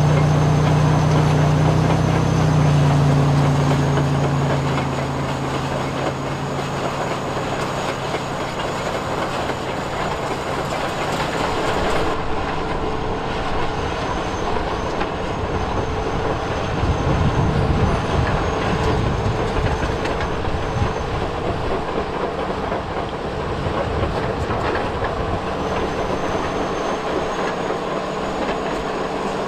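Electric motors and gearboxes of radio-controlled toy construction vehicles, an RC bulldozer and an RC dump truck, whirring and grinding steadily. A low hum is strong for the first few seconds, and the sound changes about twelve seconds in.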